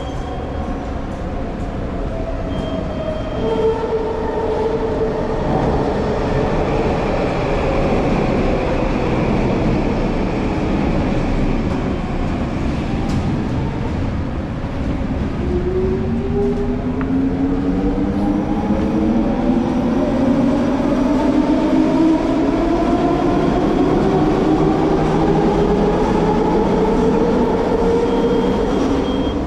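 SkyTrain rapid-transit train's motor whine dropping in pitch as the train slows over the first half, then rising steadily in pitch as it pulls away, over a rumble of wheels on the track.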